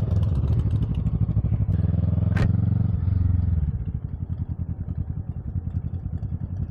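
Kawasaki Ninja 650's parallel-twin engine running on the move, easing off to a lower, pulsing idle about four seconds in. A single sharp click comes shortly before the drop.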